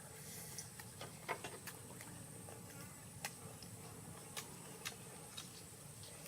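Faint, scattered sharp clicks and ticks, a few seconds apart, over a steady low background hiss.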